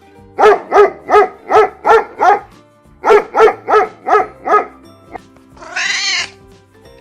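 A cat mewing: two quick runs of short, high calls, six and then five, followed by one longer drawn-out meow near the end, over background music.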